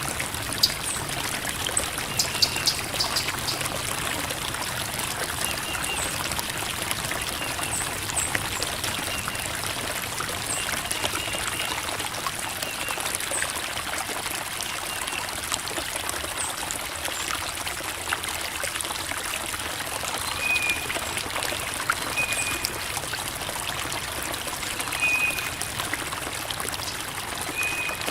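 Creek water babbling and trickling over rocks in a steady flow. Faint short high chirps recur every few seconds.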